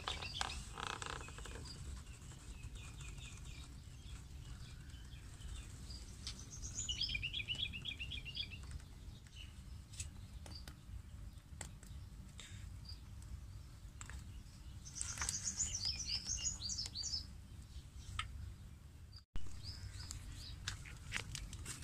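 Small birds chirping in quick series of short high notes, in two clear bursts about seven and fifteen seconds in, over a low steady rumble and scattered light clicks.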